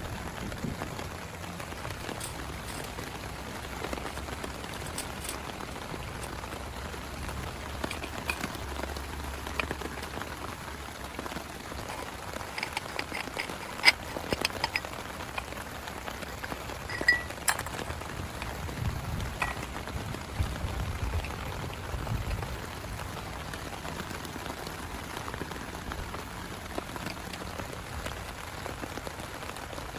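Steady rain falling, with scattered louder drops tapping through it.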